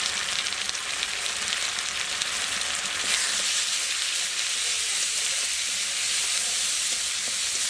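Ground spice paste (chilli, onion, ginger-garlic, turmeric) sizzling in hot oil in a metal karahi while a spatula stirs it, the masala being fried down. The sizzle grows a little louder about three seconds in, when the stirring begins.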